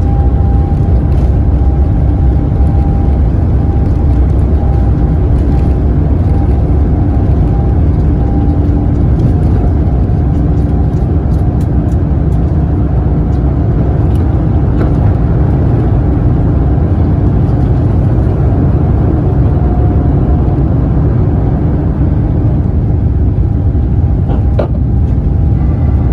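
Airbus A350 jet engines (Rolls-Royce Trent XWB) at takeoff power: a loud, steady low rumble with a few faint steady tones running through it.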